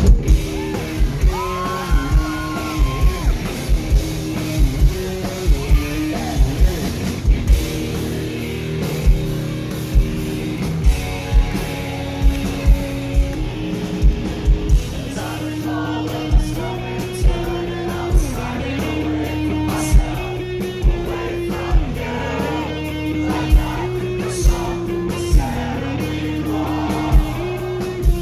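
Rock band playing live: electric guitars and a drum kit hitting a steady beat, with a sung lead vocal.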